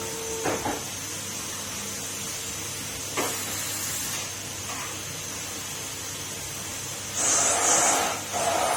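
Numatic Henry cylinder vacuum cleaner running steadily with a hiss and a constant hum. There are a couple of short knocks near the start and about three seconds in, and a louder rushing surge about seven seconds in, then another near the end.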